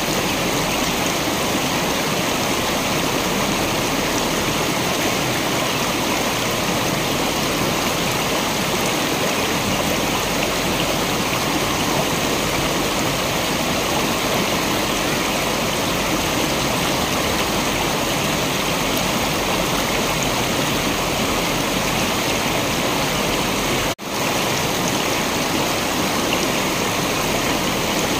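Waterfall water rushing in a steady, even roar. The sound drops out for a split second about 24 seconds in, then resumes.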